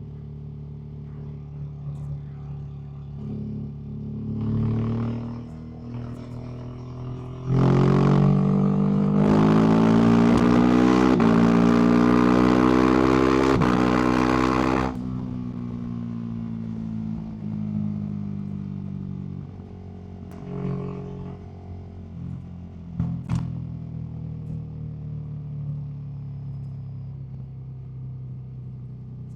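Ducati SuperSport S's 937 cc V-twin through a Termignoni aftermarket exhaust, cruising at part throttle. About seven seconds in the throttle opens hard and the engine pulls with its pitch climbing in steps for about seven seconds. The throttle then shuts suddenly and the revs fall away into a steady lower cruise with a few brief throttle blips.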